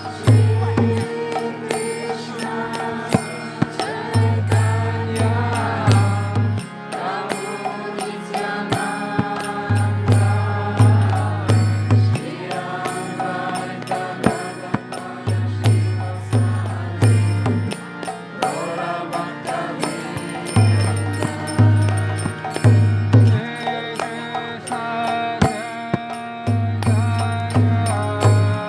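Devotional kirtan: voices chanting a mantra to a melody, with instrumental accompaniment and a steady percussion beat.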